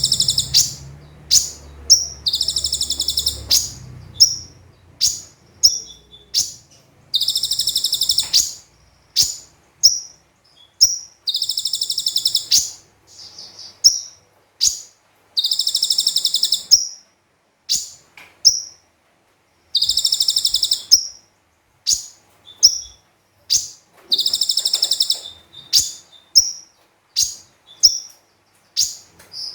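A konin (kolibri ninja sunbird) singing in full voice: long, high buzzy trills of about a second, alternating with rapid short, sharp chirps, repeating over and over.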